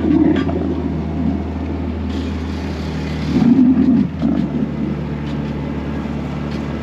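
A boat's outboard motor running steadily, a low hum under wind and water noise, with a louder rough surge about three and a half seconds in.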